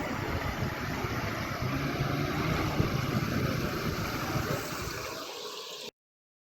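A car's engine running as it comes through floodwater, under a dense rush of noise. The sound cuts off to silence abruptly near the end.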